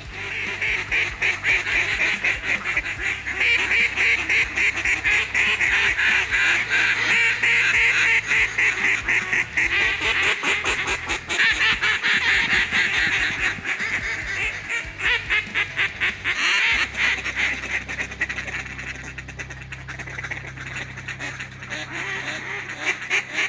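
Ducks quacking and chattering in a rapid, continuous run of calls. The calling eases off noticeably about two-thirds of the way through.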